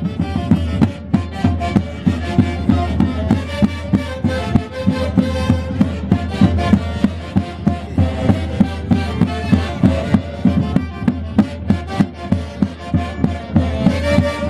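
Live Andean Santiago music from an orquesta típica: violins and other melody instruments playing a tune over a steady, evenly spaced drum beat.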